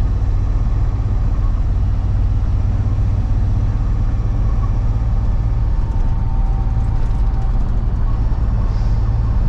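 Freightliner box truck's diesel engine and tyre noise droning steadily inside the cab while cruising at highway speed.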